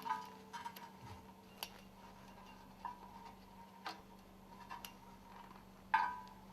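Scattered light metallic clicks and clinks, about one a second, from scraper ring segments and their spring being handled and fitted together on a work table. The last click, near the end, is the loudest. A faint steady hum runs underneath.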